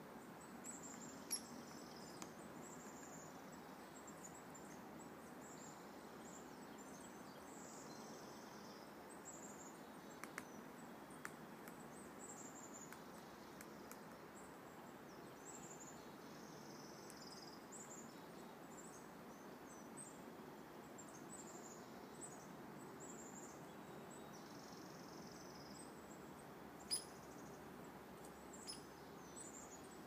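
Faint woodland ambience: short, thin, high-pitched bird calls repeated every second or two over a steady low background rumble, with a few sharp single taps, the loudest near the end.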